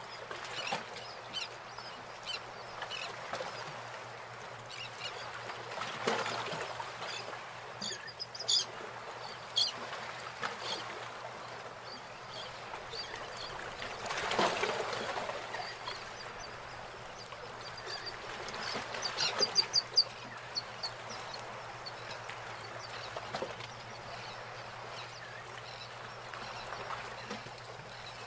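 Birds calling in the background: scattered short, high chirps come in clusters, about a third of the way in and again about two-thirds of the way in, over a low steady hum.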